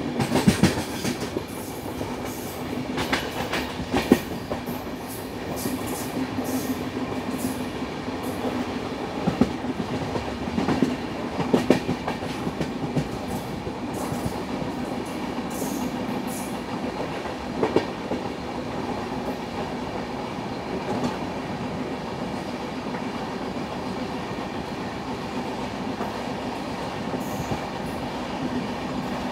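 Indian Railways passenger train running, heard from an open coach door: a steady rumble of wheels on rail, with irregular clacks over rail joints that come thick in the first half and thin out later.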